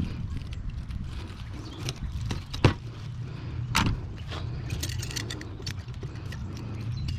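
Metal clicks and scrapes of copper tubing being worked out of a window air conditioner's aluminium-finned coil with a knife, with two louder snaps about a second apart near the middle. A steady low rumble runs underneath.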